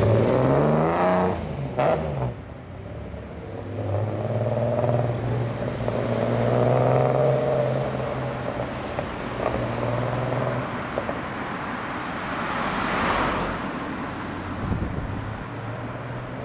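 Nissan Skyline C210's modified 2.8-litre L-series straight-six, fed by Mikuni Solex carburettors through tubular headers and a dual exhaust, pulling away and driving off. The revs shift with a brief break about two seconds in, then the engine pulls steadily and fades with distance. A rush of other traffic swells near the end.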